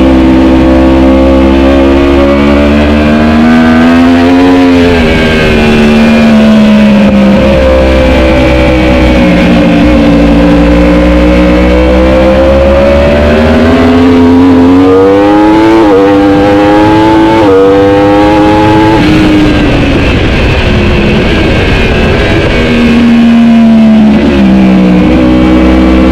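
Superbike engine running hard, its revs rising and falling. Partway through, a long climb in revs is broken by two quick upshifts, then the throttle closes and the engine note falls away before picking up again near the end.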